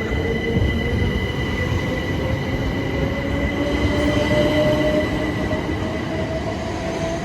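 Southeastern Class 377 Electrostar electric multiple unit pulling away, its traction motors whining in a slowly rising pitch as it gathers speed, over rumbling wheel-on-rail noise and a steady high whistle.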